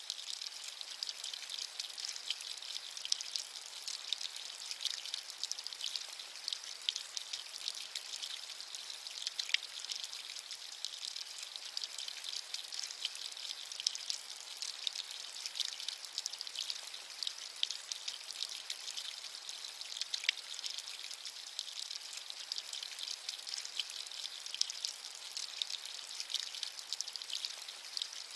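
Steady rain, a dense hiss of many fine drop taps, with a few sharper single drops standing out now and then.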